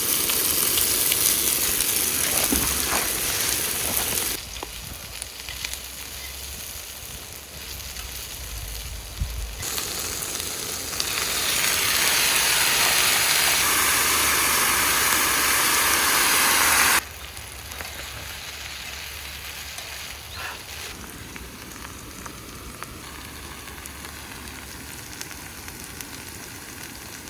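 Food sizzling in a frying pan, an even hiss that cuts in and out abruptly several times, loudest at the start and again in the middle.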